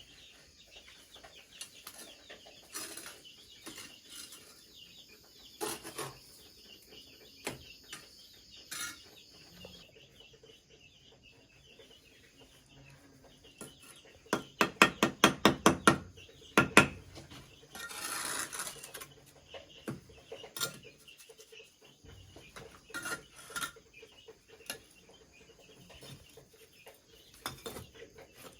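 Scattered knocks and taps of hand work on bamboo, with a fast run of about ten sharp strikes midway.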